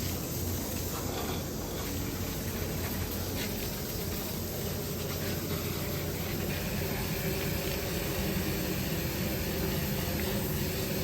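Steady hiss of water spraying from a pressure washer onto a dirt race car.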